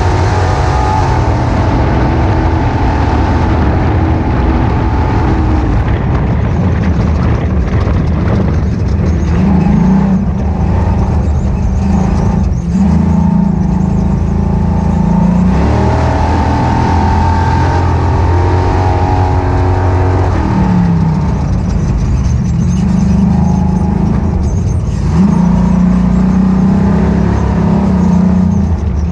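Ultra4 off-road race car's engine running hard under race load, its revs rising and falling every few seconds.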